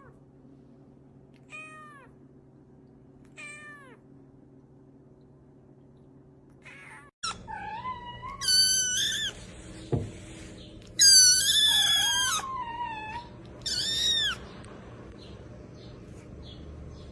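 A cat meowing: two short, faint meows falling in pitch, then a string of louder, longer, high-pitched meows later on, with a single sharp knock among them.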